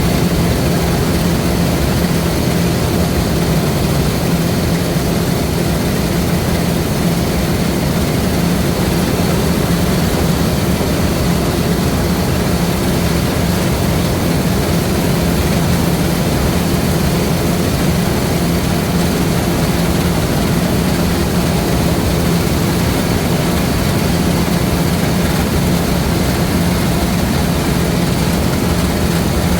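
Diesel engine of a LOVOL RG130 EVO rice combine harvester running at a steady speed, a continuous even drone with no change in pitch.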